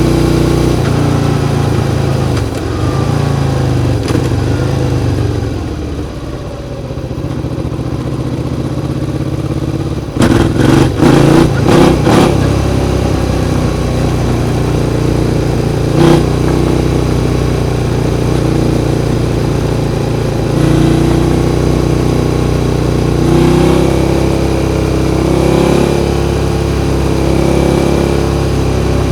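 Suzuki SV650's 90-degree V-twin engine running steadily. It drops off for a few seconds, then a quick cluster of sharp, loud strokes comes about ten seconds in, with a single sharp stroke a few seconds later. Steady running with a few slight rises in engine speed follows.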